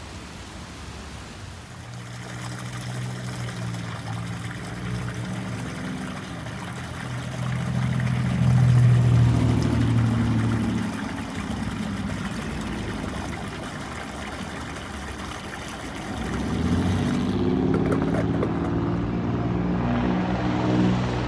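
Steady rain with the low hum of a motor vehicle's engine, which grows louder twice, about eight seconds in and again near the end.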